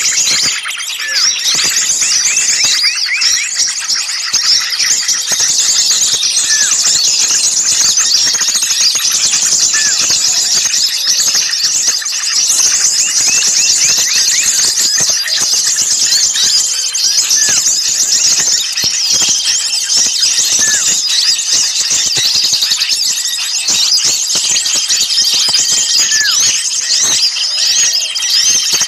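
A dense, unbroken chorus of many small songbirds giving rapid high-pitched chirps and agitated calls, with a short rising note repeating about every two seconds. It is a 'noisy' bird-lure recording of excited small-bird calls, used to draw small birds in.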